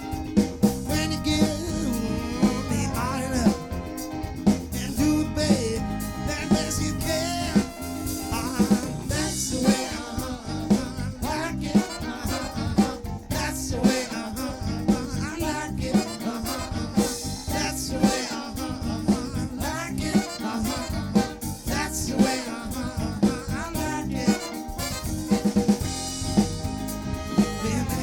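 Live band playing, with a drum kit's snare and bass drum keeping a steady beat under sustained instrument lines.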